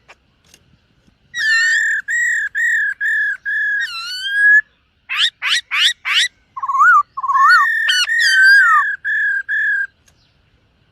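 Black-throated laughingthrush singing: a run of about seven clear, evenly repeated whistled notes, then four quick sweeping notes, then a varied whistled phrase that ends in more repeated notes.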